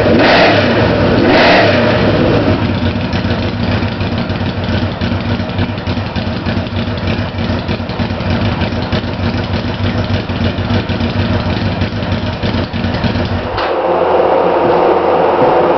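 1986 Yamaha V-Max's V4 engine through a Kerker 4-into-2 exhaust with no baffle material: two quick blips of the throttle, then a loud, evenly pulsing idle. Near the end the deep exhaust note drops away and a higher mechanical clatter takes over.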